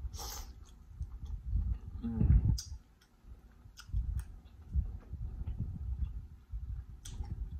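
Close-miked mouth sounds of someone eating buttery lobster meat: chewing with wet lip smacks and clicks, and a brief hummed voice sound about two seconds in.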